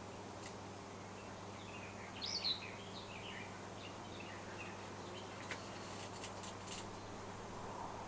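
A songbird sings one short warbled phrase about two seconds in. A few faint sharp ticks follow later, all over a steady low hum.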